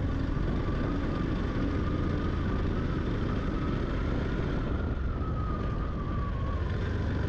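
Yamaha FZ-X motorcycle underway, its single-cylinder engine running steadily beneath a constant rush of wind on the rider-mounted microphone, with a faint whine that rises slightly and then eases back.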